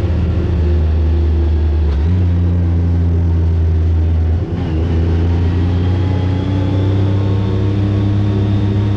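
Side-by-side UTV engine running steadily at road speed. There is a change in pitch about two seconds in and a brief dip about four and a half seconds in, after which the engine note rises slowly.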